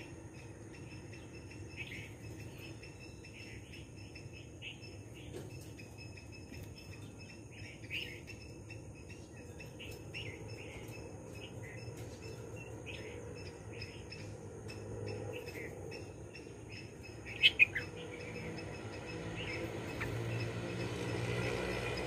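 Small birds chirping, short calls repeating irregularly over a steady high-pitched hum. Two louder, sharp notes come close together about three-quarters of the way through. A low rumble swells in the last few seconds.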